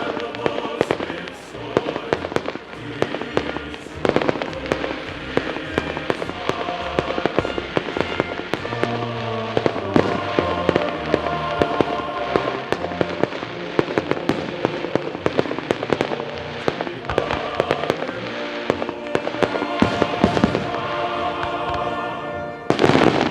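Fireworks bursting in quick succession, many sharp bangs throughout with a big burst near the end, over music.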